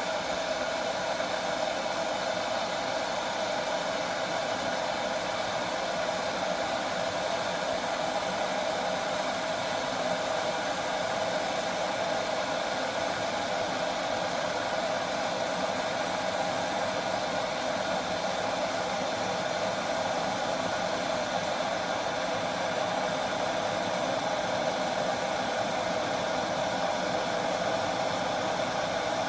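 Glass electric kettle heating water: a steady, even rushing hiss.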